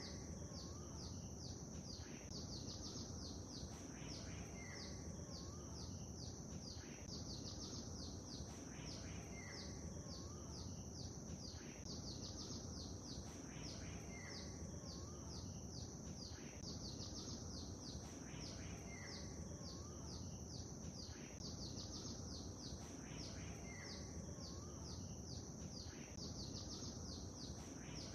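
Small songbirds chirping in quick runs of high chirps that recur evenly every couple of seconds, over a steady low wash of lake water.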